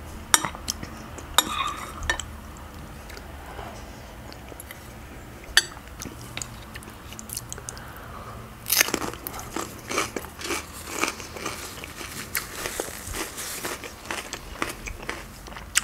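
A few light clinks of a metal spoon against a glass bowl. Then, from about nine seconds in, close-up crunching and chewing of a raw red radish, in quick crisp strokes.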